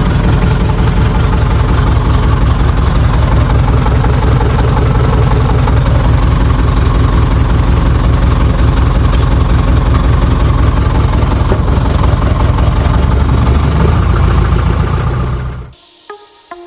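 Loud vehicle engine running steadily with a heavy low rumble, which stops abruptly about a second before the end.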